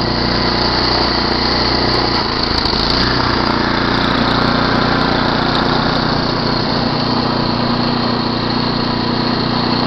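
Small gasoline engine of a snowblower running steadily, with a slight shift in its pitch about two to three seconds in.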